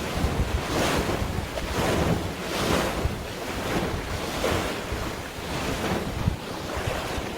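Wind gusting on the microphone over the wash of sea waves, a steady noisy rush that swells and eases every second or so.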